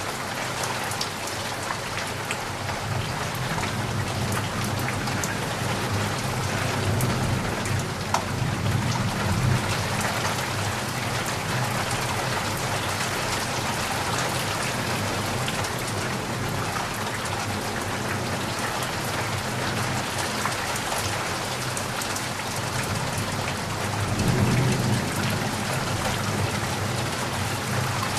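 Heavy rain falling steadily, a dense hiss of drops on surfaces. Low rumbles of thunder swell up twice, about a third of the way in and again near the end.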